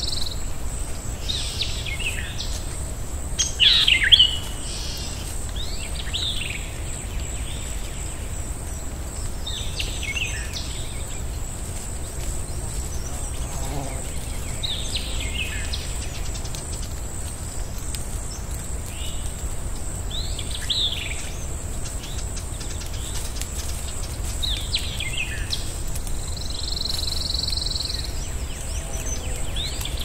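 Wild birds chirping: short, quick, falling chirps every few seconds, the loudest cluster about four seconds in. Behind them runs a steady low rumble and a thin, steady high-pitched whine.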